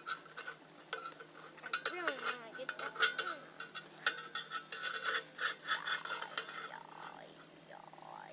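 A metal utensil scraping, tapping and clinking in a cooking pan as johnny cakes are worked over the fire, in a quick irregular string of scrapes and knocks. Near the end a bird calls a few times.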